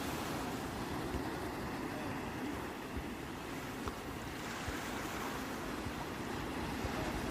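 Sea waves washing in steadily as an even surf noise, with a low rumble of wind on the microphone.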